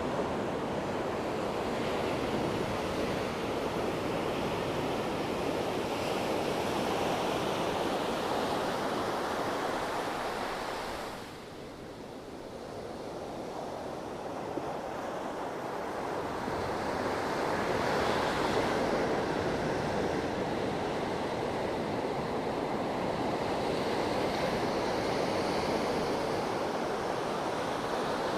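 Sea waves washing onto the shore in a continuous surf, with a brief lull about eleven seconds in before the next wave swells back up.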